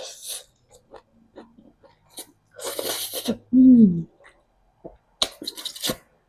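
Mouth sounds of someone eating spicy noodles: a long noisy slurp, a short hum that falls in pitch, then a quick run of wet chewing clicks.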